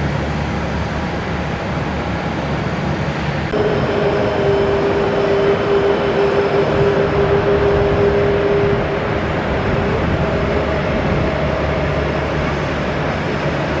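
Jet aircraft engines running with a steady rush of noise; about three and a half seconds in the sound grows louder and a steady engine whine joins it.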